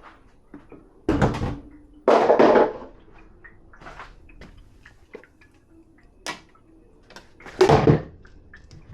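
Clatter of dishes being handled at a dishwasher: three louder knocks and clatters, about a second in, around two seconds in and near the end, with small clinks and taps between.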